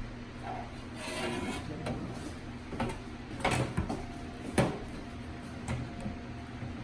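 Honey extractor loaded with frames being worked: rubbing and scraping with several sharp knocks over a steady low hum.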